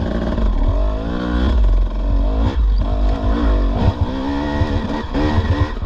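Dirt bike engine revving, its pitch rising and falling several times as the throttle is worked, with a few short knocks.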